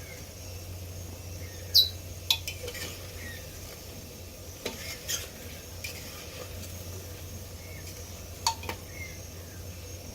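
Bolinhos de chuva deep-frying in hot oil with a steady sizzle, and a large metal fork clinking against the pan several times as the dough balls are turned. The loudest clink comes about two seconds in and rings briefly.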